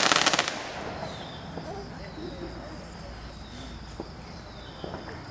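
Fireworks: the crackling tail of a large aerial burst dies away in the first half-second. Then a lull with a few faint, distant pops about four and five seconds in.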